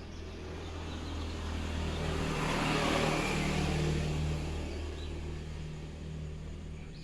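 A motor vehicle passing by, its engine hum and rushing noise swelling to a peak about three seconds in and then fading.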